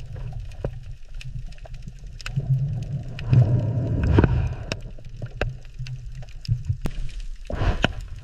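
Underwater ambience: a low rumble with many scattered sharp clicks, and louder rushing, gurgling swells of water about three to four seconds in and again near the end.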